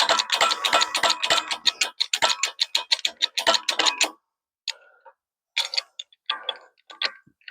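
Ratchet wrench clicking rapidly as it is worked back and forth, then a few slower, separate clicks after about four seconds, typical of running a U-joint press screw down before it takes up load.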